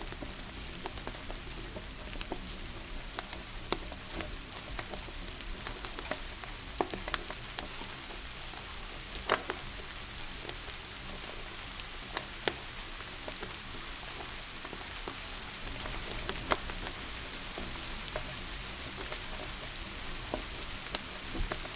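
Steady rain hiss together with the irregular, sharp pops and crackles of a wood fire burning in a fireplace.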